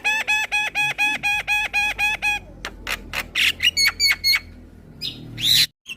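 Javan myna chattering: a fast run of identical repeated notes, about six a second, for over two seconds, then sharp clicks and short whistles, and a harsh squawk near the end.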